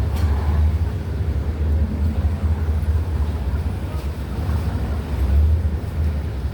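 Low, steady rumble of a ferry boat's engine.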